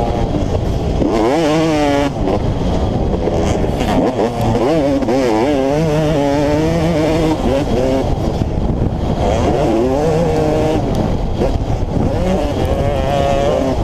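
Motocross dirt bike engine being ridden hard, its pitch climbing and dropping over and over as the throttle is opened and closed.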